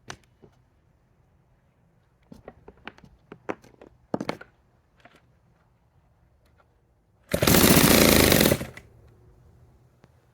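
1946 Power Machinery chainsaw being cranked on its starter: a few clicks and knocks of handling, then one loud burst of rapid strokes lasting about a second and a half, about three-quarters of the way through.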